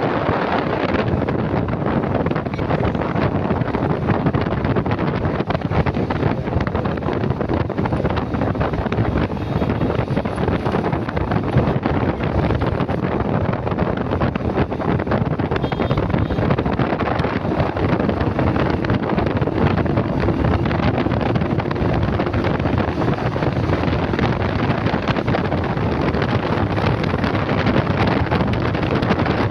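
Heavy, steady wind noise on the microphone of a moving motorcycle, with vehicle and road noise underneath.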